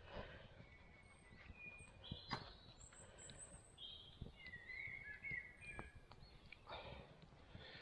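Quiet woodland background of small birds chirping and calling, with a few sharp clicks scattered through it.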